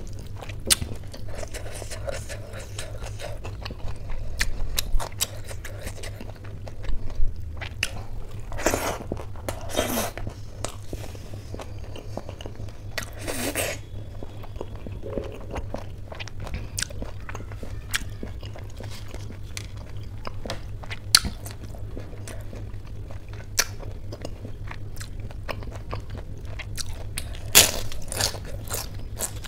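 Close-up eating sounds: wet chewing and mouth clicks as soft khichdi is eaten by hand, with a few longer smacking smears. Near the end a crisp fried snack is bitten, giving a cluster of sharp crunches.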